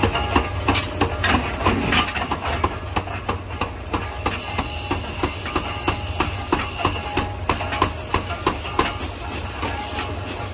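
Forging hammer striking hot steel over and over, about three blows a second, with a steady low hum of shop machinery underneath.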